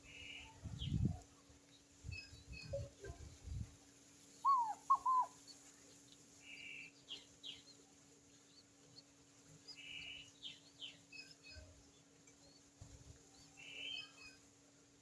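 Wild birds calling: scattered short high chirps and a raspy note repeated every few seconds, with two loud downward-sliding calls about four and a half seconds in. A few low thumps come in the first four seconds over a faint steady hum.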